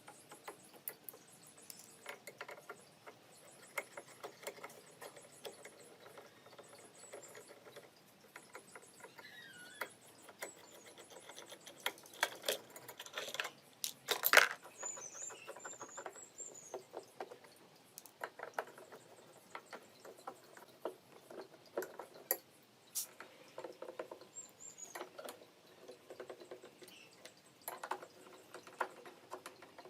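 Scattered light clicks and taps from small objects being handled, with one louder sharp click about halfway through and a few brief high chirps.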